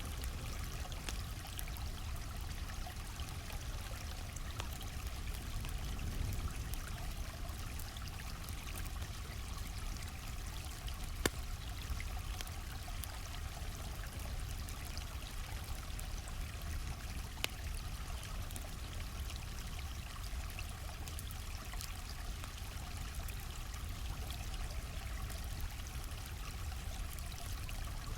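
A stream flowing steadily, with a campfire crackling over it in small scattered pops and two sharper pops about eleven and seventeen seconds in.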